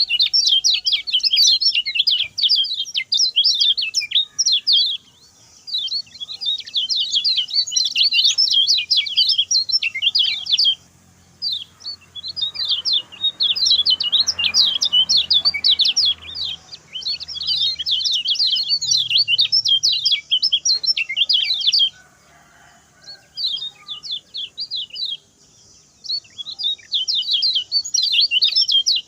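Kecial kuning singing a fast, high-pitched chattering song of rapid notes in long runs, broken by a few short pauses. This is the short, fast 'speed' song used as a training recording for young birds to copy.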